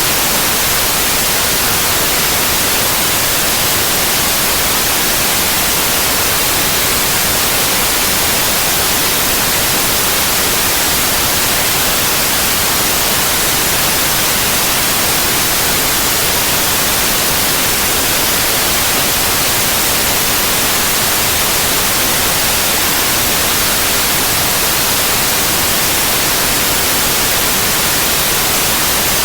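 Continuous synthetic white noise: an even, unchanging hiss, loud and steady throughout.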